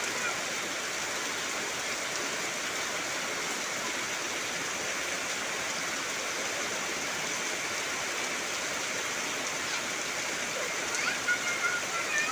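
Heavy rain falling steadily on trees, an even hiss at a constant level. Near the end a brief pitched call with a wavering pitch sounds over the rain.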